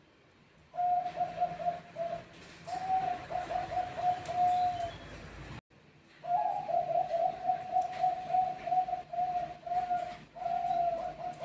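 Zebra dove (Bangkok-type perkutut) cooing: rapid rhythmic series of short trilled notes on one pitch, starting about a second in. The sound cuts out briefly halfway through, then the cooing resumes.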